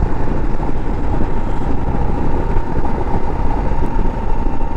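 Motorcycle riding along, engine running steadily under a dense rush of wind noise, with a steady thin whine.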